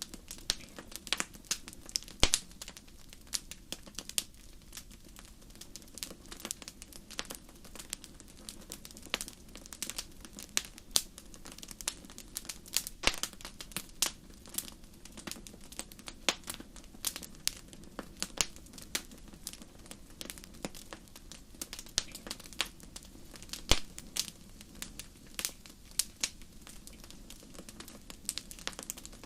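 Fireplace fire crackling: irregular sharp pops and snaps, several a second, over a steady low background, with a few louder pops scattered through.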